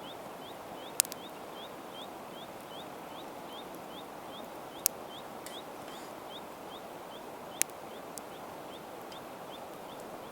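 A bird repeats a short rising chirp about two and a half times a second over a steady outdoor hiss. Three sharp pops from the wood campfire stand out, about a second in, near the middle and about three-quarters through.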